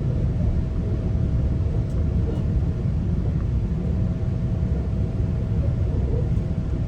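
Steady low rumble of a GO Transit bilevel passenger coach running along the track, heard from inside the coach, with a faint steady hum.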